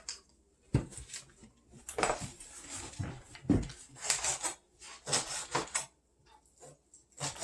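Kitchen clatter while raw chicken is cut up: irregular knocks of a knife and dishes on the worktop, with scraping and clinking between them, the loudest knocks about a second in and halfway through.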